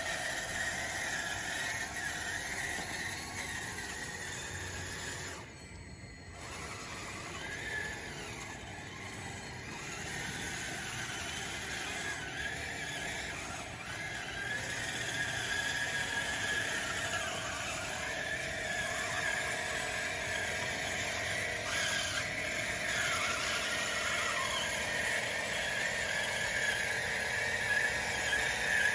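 RC model dozer's electric drive motors and gearing whining as it runs, the pitch wavering up and down, with a brief drop about six seconds in.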